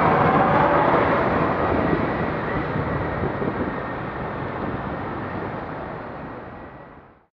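Steady vehicle and road noise on the move, fading out gradually and ending in silence just before the end.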